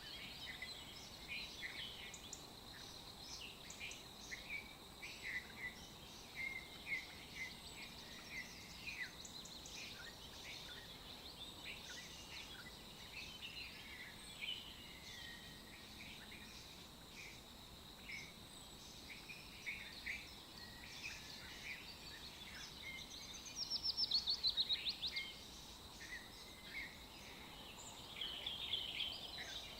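Several songbirds chirping and singing in short calls throughout, with a rapid trill of repeated notes about three-quarters of the way through. A faint steady high-pitched tone runs underneath.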